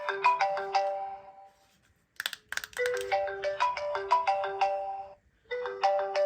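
Phone ringtone: a short melody of quick, bright, bell-like notes, repeated about every three seconds, with a brief burst of clicks between phrases a little over two seconds in.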